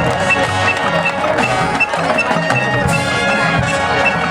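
Marching band playing its field show music, with drums and mallet percussion and a short high note repeating at an even pace.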